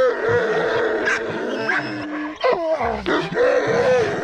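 A dog making long, high-pitched whining cries that waver in pitch, with a brief break about two and a half seconds in, as it works on a bite during bite-work training.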